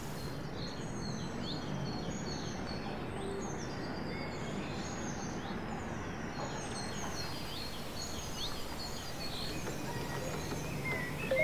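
Birds chirping: many short, quick calls throughout, over a steady low background hum of outdoor ambience.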